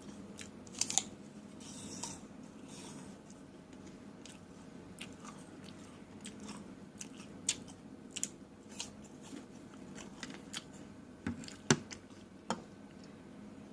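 Crunching bites and wet chewing of fresh raw fruit such as apple and pear, heard as scattered short sharp crunches and clicks, the loudest a little before the end.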